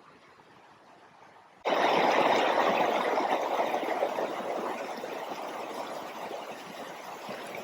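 Rushing water of a mountain river or creek, a loud steady rush that cuts in suddenly about two seconds in and slowly fades.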